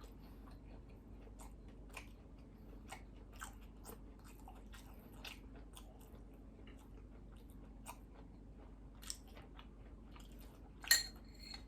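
A person chewing food close to the microphone, with soft, irregular mouth clicks. A sharper click with a brief ring comes near the end.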